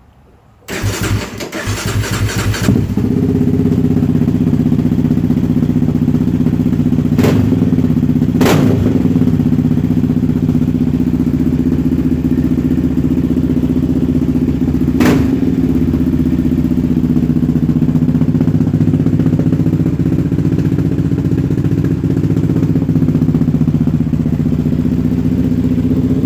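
Yamaha Raptor 700R quad's single-cylinder four-stroke engine, on a full monster single aftermarket exhaust, starting about a second in. It catches roughly and settles within a couple of seconds into a loud, steady idle, with three brief sharp cracks along the way.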